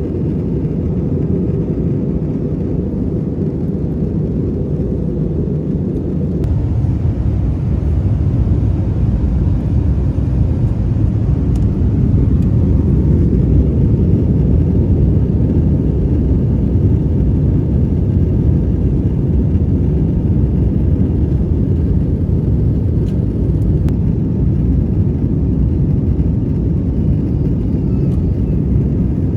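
Airliner cabin noise in flight aboard an Airbus A321: a steady low rush of engines and airflow, a little louder from about six seconds in.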